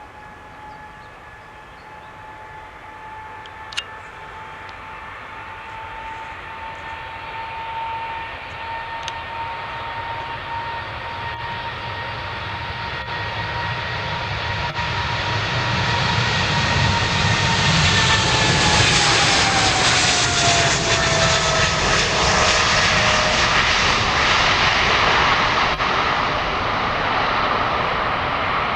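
Qatar Cargo Boeing 777F on its takeoff run, its GE90 turbofans at takeoff power, growing steadily louder as it approaches. A high fan whine holds steady, then drops in pitch as the jet passes, under a heavy jet rumble and roar that peaks as it goes by.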